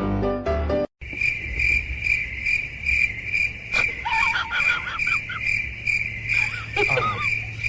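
Insects chirping in a steady, even rhythm of about two to three chirps a second. It follows a short bit of piano music that cuts off about a second in. A few brief gliding calls sound in the middle and near the end.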